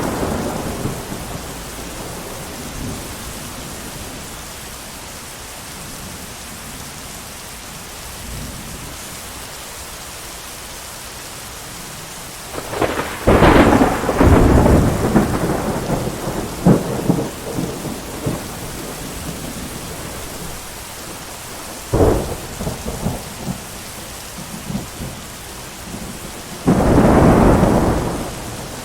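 Steady heavy rain with thunder. A long rumbling peal with sharp cracks in it comes about halfway through, a single sharp crack a few seconds later, and another loud rumble near the end.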